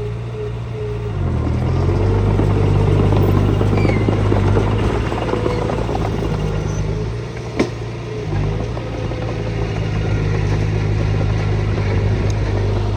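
Heavy diesel engine of earthmoving machinery running steadily under load, its pitch shifting briefly about a second in and easing off then picking up again a little past the middle, with one sharp knock at that point.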